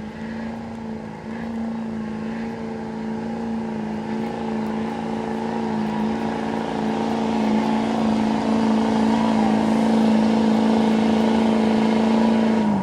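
A truck's engine held at high, steady revs under heavy load while pulling the weight-transfer sled, growing slowly louder, then let off suddenly near the end with the pitch falling away.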